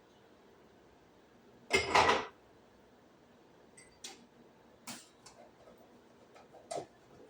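Kitchen handling noises: one loud clatter about two seconds in, then a few light clicks and taps.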